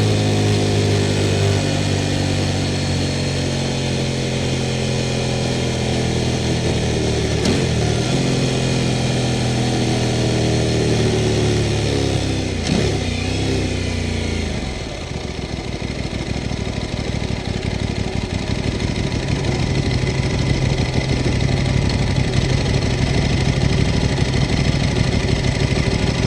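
Sport motorcycle engine running at a held, raised speed, with two brief dips in pitch, then dropping back to a steady idle about fifteen seconds in.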